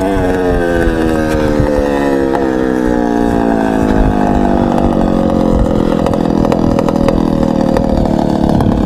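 Motorcycle engine running at high revs, its pitch falling slowly over about six seconds and then holding steady, with a few light knocks along the way.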